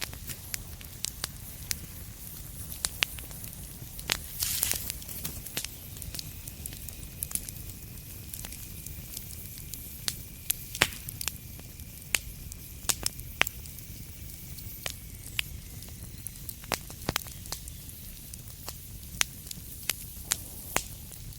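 Wood fire in a fireplace crackling, with irregular sharp pops over a steady low rumble. A short hiss flares about four seconds in, and a faint high whistle runs through the middle.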